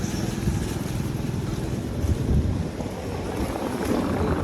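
Street ambience: a low rumble of passing vehicles, with wind buffeting the microphone.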